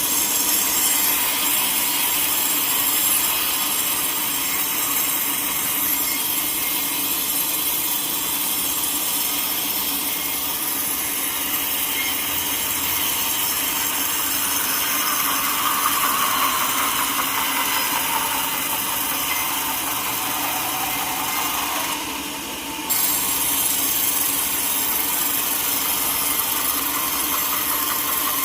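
Sawmill saw cutting through a teak log with a steady, hissing rasp. About halfway through, a faint tone slides slowly downward, and the sound drops away briefly near the end before resuming.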